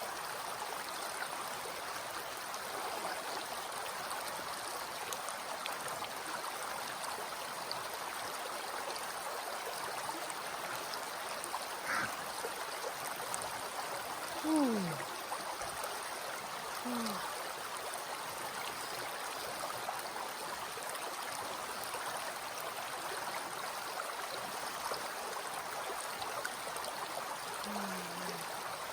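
Cold, swift mountain river rushing steadily. A few short wordless sounds falling in pitch break in around the middle and near the end, the loudest about halfway through.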